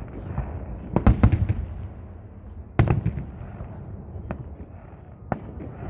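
Fireworks salute bursting: a quick cluster of loud bangs about a second in, another loud bang near three seconds, then single sharp cracks, over a steady low rumble.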